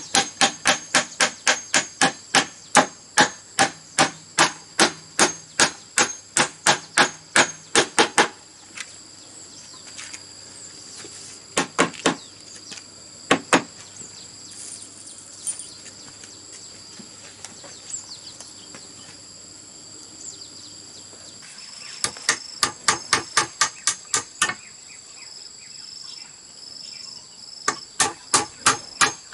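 Rapid hammer blows on bamboo, about four a second, in bursts: a long run at the start, two single blows near the middle, and shorter runs late on. Insects shrill steadily behind it.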